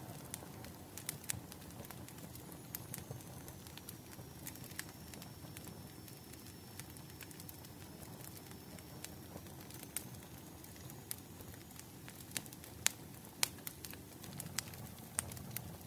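Wood fire crackling: irregular sharp pops and snaps over a steady low rumble of burning, with a faint thin high whistle through the middle.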